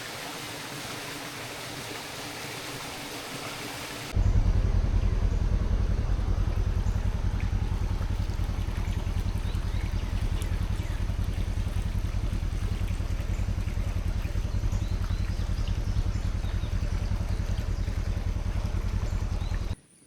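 Rushing creek water, swollen after heavy rain, for about four seconds; then an abrupt cut to a louder, steady low rumble that lasts until just before the end, where it stops suddenly.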